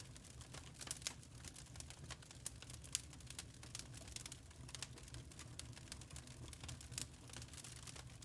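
Burning charcoal crackling: small irregular pops and snaps, several a second, one a little louder about three seconds in, over a steady low hum.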